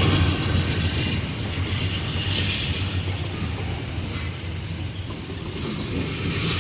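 Freight train wagons rolling past, their steel wheels clattering and rattling on the track over a low rumble, which eases off slightly as the train goes by.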